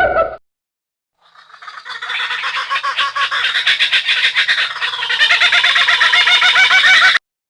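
A dense chorus of many animals calling at once, rapid overlapping chirps and squawks. It fades in over about a second and cuts off abruptly near the end. The end of a different animal call is heard briefly at the very start.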